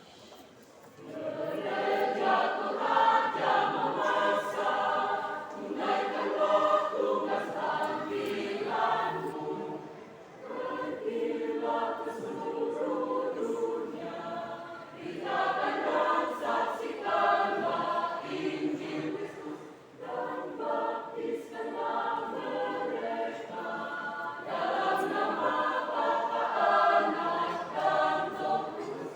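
A church choir singing, coming in about a second in and going on in long phrases with brief dips between them.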